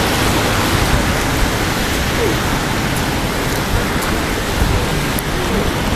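Steady rain falling in a city street: an even hiss with a low rumble underneath.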